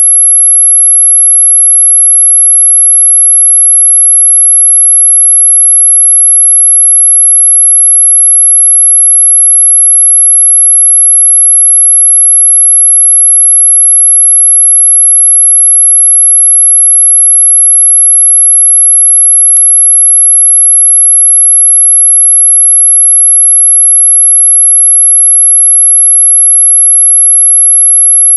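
Loud, steady, very high-pitched electronic sine tone of the kind sold as a mosquito-repellent sound, holding one pitch throughout. A single brief click about two-thirds of the way through.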